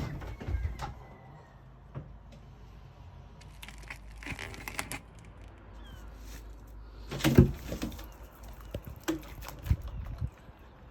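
Scattered taps and knocks, the loudest about seven seconds in, with a few faint short squeaky calls from a seagull.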